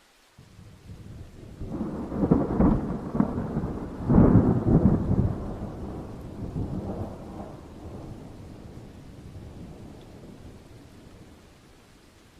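A peal of thunder over faint steady rain: the rumble starts about half a second in, peaks with two loud crackles around two and four seconds, then rolls away and fades slowly.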